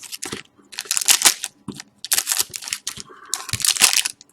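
Thin plastic crinkling in three short bursts.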